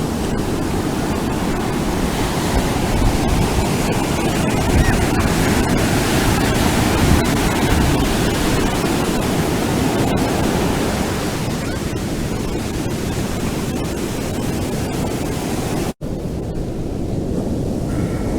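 Ocean surf breaking and washing on a beach: a steady rushing noise that swells and eases slightly. It cuts out for an instant near the end, then carries on with less hiss.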